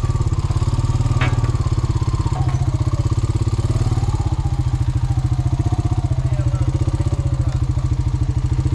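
Engine idling steadily with an even, rapid low pulse, with a faint wavering whine above it. A single brief click about a second in.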